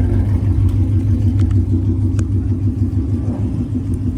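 Aprilia RSV4 1100 Factory's V4 engine running steadily at low revs, a deep even rumble with a few faint clicks over it.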